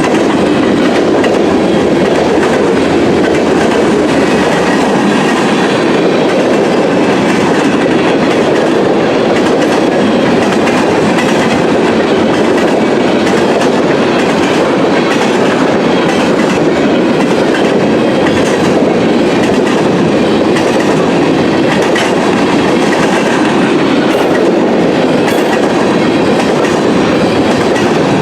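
Train cars rolling steadily past, with the continuous rumble and clickety-clack of steel wheels on the rails.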